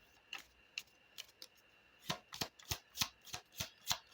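A deck of Egyptian oracle cards being shuffled by hand: a few separate card snaps, then from about two seconds in a quick run of snaps, several a second.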